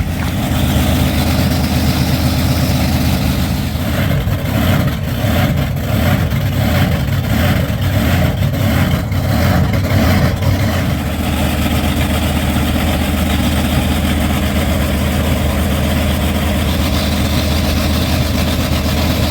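Monster truck's big engine idling, with the revs pulsing up and down from about four to eleven seconds in before it settles back to a steady idle.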